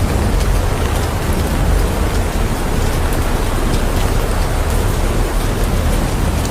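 Heavy rain pouring steadily, a dense even hiss of drops with a constant low rumble underneath.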